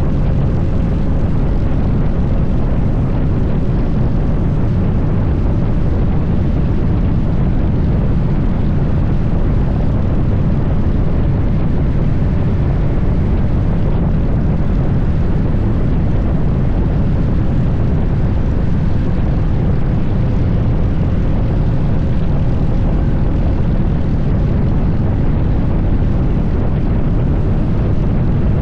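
Harley-Davidson Fat Bob 114's Milwaukee-Eight 114 V-twin engine running at a steady cruise while riding, a loud even low rumble that holds the same pitch throughout.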